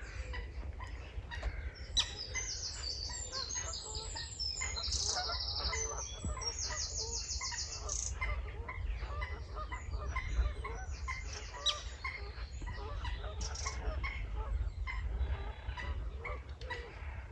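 Many birds calling at once, overlapping, with high, rapidly pulsed calls bunched in the first half over a steady spread of lower calls, and a low rumble of wind on the microphone underneath.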